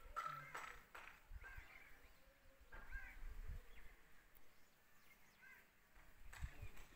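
Faint, scattered bird calls: a few short chirps spread a second or two apart over quiet outdoor background.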